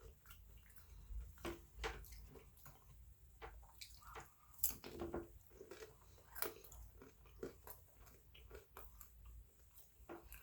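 A person chewing food, faint and irregular, with small wet mouth clicks.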